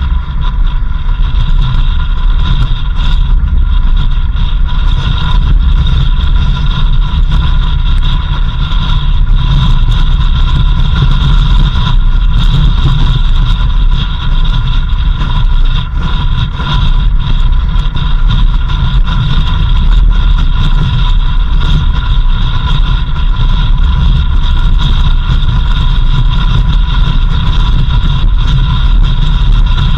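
A 4x4 vehicle driving steadily on a dirt road: a loud, constant low rumble of engine and road noise, with steady higher whines over it.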